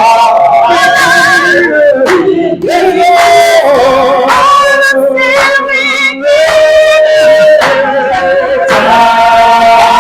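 Slow worship song sung by voices, with long held notes and a wavering vibrato.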